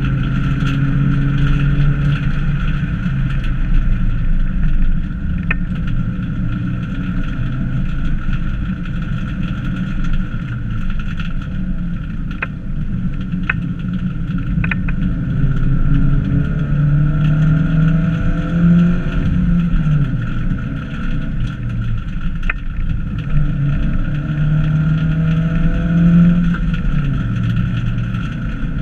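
Fiat Cinquecento hillclimb car's small engine (class up to 900 cc) running hard, heard from inside the stripped-out cabin. Its revs climb and drop back repeatedly through gear changes and corners, with a few sharp clicks along the way.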